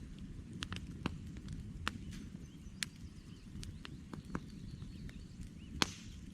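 Wood campfire crackling: irregular sharp pops and snaps from the burning logs, the loudest a little before the end, over a low steady rumble.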